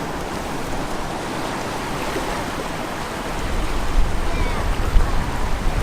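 Surf washing on a sandy beach, a steady rushing hiss. About three seconds in, a low rumble joins it and the sound gets louder.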